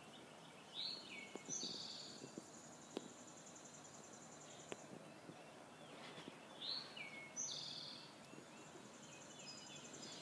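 A songbird sings the same short phrase twice, about six seconds apart. Each phrase is a quick downward-sliding note, a fast trill and a lower closing note. After each phrase a thin, high, steady buzzing trill runs on for a few seconds, over faint outdoor background sound.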